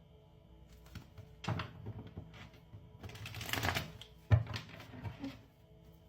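A deck of tarot cards being shuffled by hand: scattered flicking and rustling, a dense burst of riffling a little past the middle, then one sharp tap of the deck on the table. Quiet background music with steady tones runs underneath.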